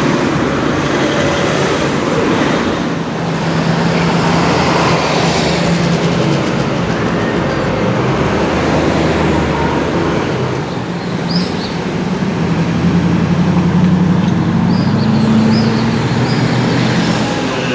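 Porsche Cayenne Gemballa Tornado's engine running at low revs, a steady low drone that swells a little about two-thirds of the way through.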